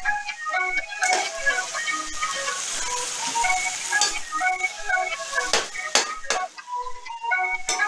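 Chicken pieces sizzling as they sauté with tomatoes and onions in a metal pot, a steady hiss. A spoon stirring them knocks sharply against the pot several times. Background music plays throughout.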